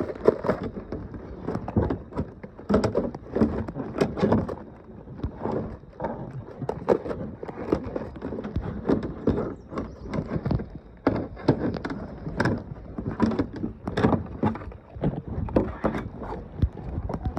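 Fishing gear being handled and packed away: a run of irregular knocks and thuds with rustling.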